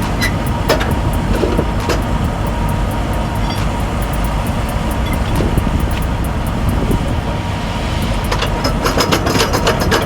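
Semi truck's diesel engine running steadily, with scattered clicks and knocks that grow more frequent near the end.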